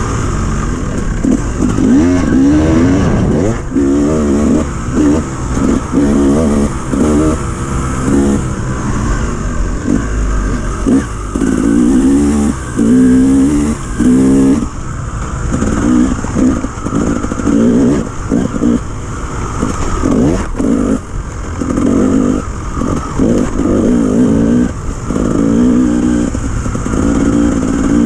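Enduro dirt bike engine revving in short, repeated throttle bursts, the pitch rising and dropping every second or so as the rider works the throttle over slippery ground.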